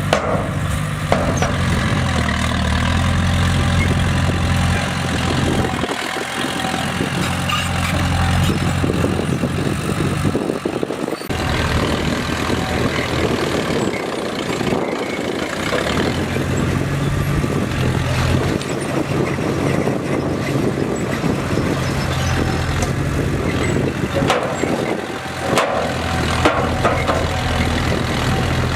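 Bulldozer's diesel engine running steadily, its note rising and falling with the load, with occasional short knocks.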